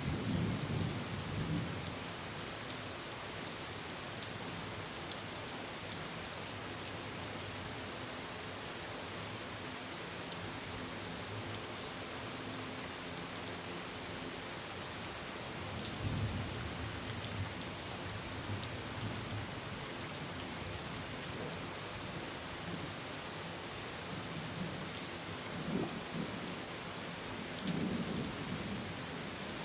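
Heavy rain drumming steadily on a tin roof, with low thunder rumbles rolling in a few times: just after the start, about halfway through, and twice near the end.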